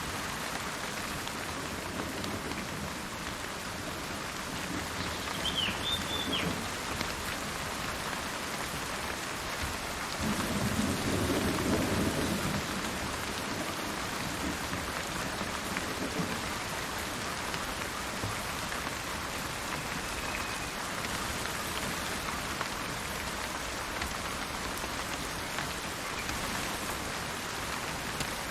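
Steady rain falling in a forest, with a low roll of thunder swelling about ten seconds in and fading a few seconds later. A brief bird chirp sounds early on in the rain.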